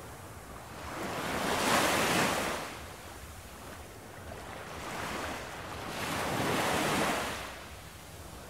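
Ocean surf washing ashore in slow swells: two waves surge in and fall back, about five seconds apart.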